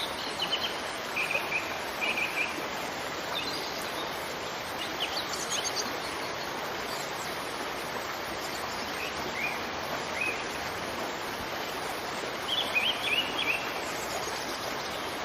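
Steady rush of falling water, with small birds chirping in short bursts of quick notes on and off over it.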